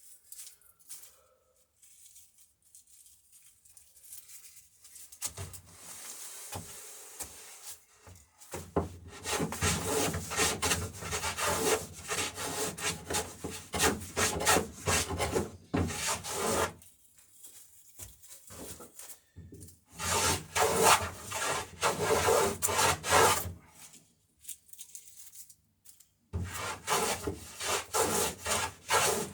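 Hand tool shaving and rasping the bevel along a wooden dory plank's edge, to fair the land for the next plank. It comes as rapid scraping strokes in three bouts, after a quiet start with only light handling sounds.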